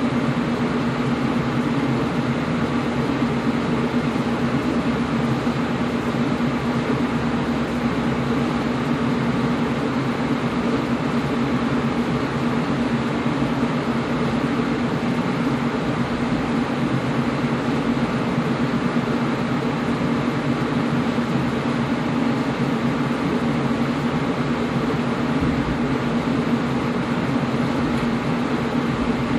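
Air conditioner running steadily: an even rushing of air over a low hum.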